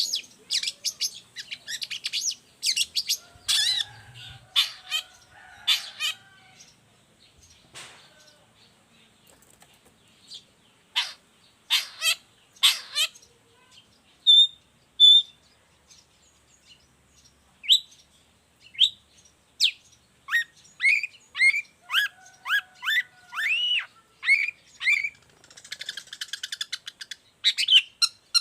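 Long-tailed shrike (cendet) singing: a rapid, varied string of sharp high chirps and trills, a few seconds' pause in the middle, then whistled notes and quick gliding calls.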